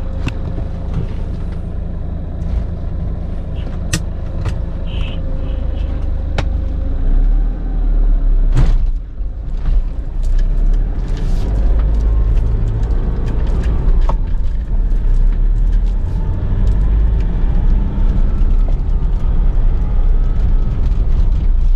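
Toyota Innova diesel engine and road noise heard inside the cabin while driving, a steady low rumble that grows louder after several seconds, with a brief drop about nine seconds in. The tractor-like knock is absent, now that the MAP sensor vacuum hose fault has been corrected.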